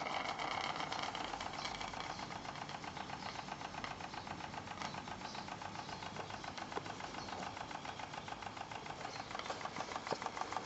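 Steamboat's two-cylinder steam engine running, a fast, even beat of strokes that starts abruptly and holds steady.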